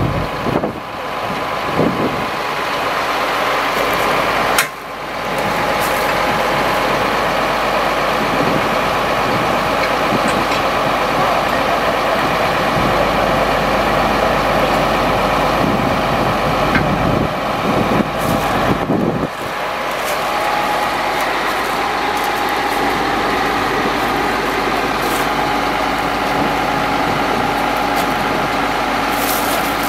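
Chevrolet C7500 truck's engine running steadily, with brief sudden dips in level about five seconds in and again near nineteen seconds.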